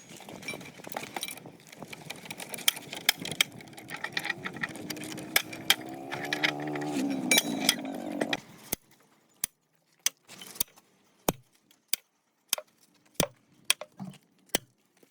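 Metal tools and parts clinking and tapping against each other during a repair, over a busy background for the first part. The background stops abruptly about two-thirds through, leaving single sharp metal clinks a little more than once a second.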